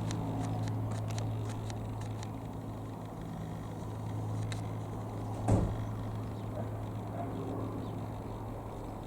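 Single piston engine of a Rockwell Commander light aircraft droning as it flies over, a steady low hum that eases slightly over the first few seconds. A short knock about five and a half seconds in.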